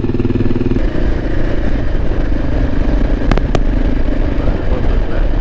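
Motorcycle engine running steadily while riding, with two sharp clicks a little past three seconds in.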